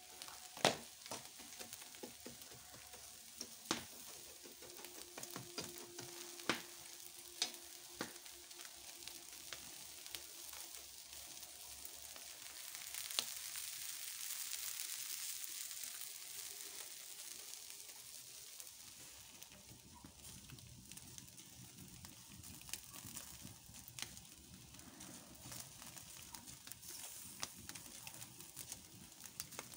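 Chicken pieces sizzling over wood embers: a faint, steady hiss with scattered sharp pops and crackles. The hiss swells for a few seconds midway.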